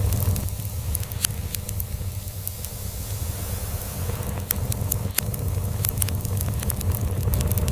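Log fire crackling, with many scattered sharp pops, over a steady low rumble of a cat purring.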